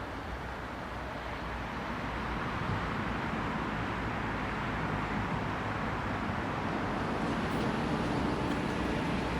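Steady urban traffic noise, growing gradually louder as a vehicle approaches.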